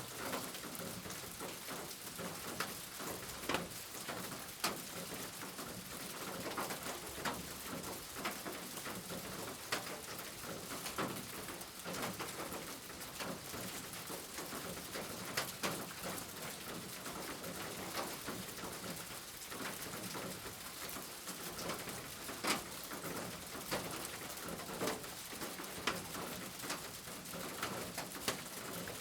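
Steady rain falling, with many separate drops striking close by in sharp ticks, and a bird calling low in the background.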